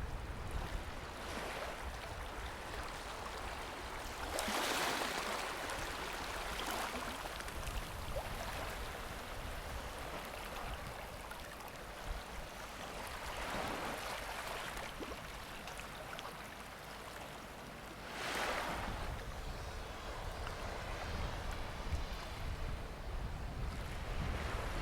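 Small waves breaking and washing up a sandy beach, with three louder surges: about four seconds in, near the middle, and about eighteen seconds in.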